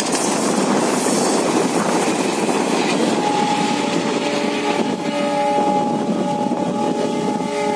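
A passenger train hauled by an Alco diesel locomotive rolls past, its coaches' wheels clattering over the rail joints. From about three seconds in, a multi-tone train horn sounds in long, sustained blasts as the train draws away.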